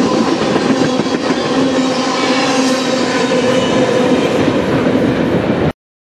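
CN manifest freight train's tank cars rolling past close by, steel wheels clattering over the rails with a steady ringing hum. The sound cuts off suddenly near the end.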